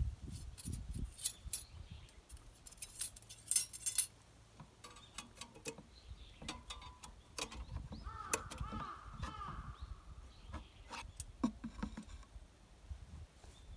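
Thin metal parts of a homemade flat-pack fire pit clinking and clattering as they are handled. A busy run of sharp metallic clinks comes in the first few seconds, followed by sparser knocks and clicks.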